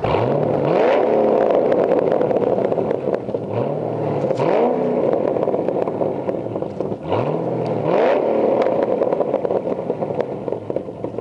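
2009 HSV VE Clubsport's 6.2-litre LS3 V8 through a 316 stainless steel cat-back exhaust, revved three times in blips about three and a half seconds apart, the note rising sharply and dropping back between each.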